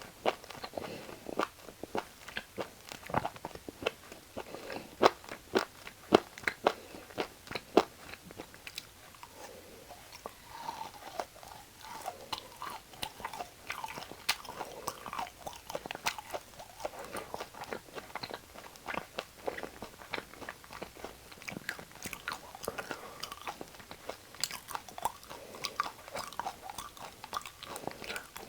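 Close-up chewing of beef offal, with wet mouth sounds and many crisp crunches.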